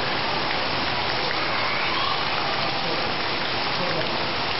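Heavy rain falling steadily, splashing into puddles on bare earth.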